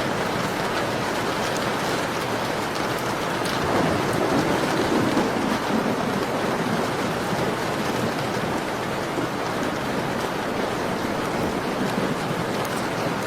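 Steady rain pattering on a window, with a low swell in the sound from about four to six seconds in.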